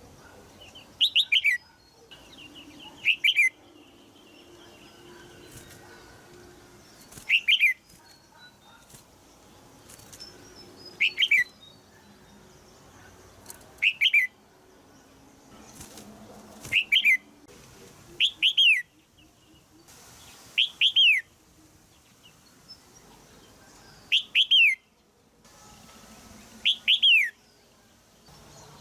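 Red-whiskered bulbul, a caged female, giving short sharp calls again and again, each a quick run of two or three notes falling in pitch, about every two to three seconds.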